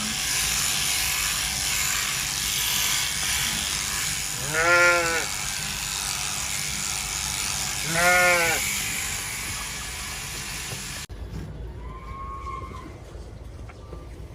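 Large electric sheep-shearing clippers running with a steady buzzing hiss while a sheep bleats twice. About eleven seconds in, the clipper noise cuts off suddenly, leaving a quieter background with one faint call.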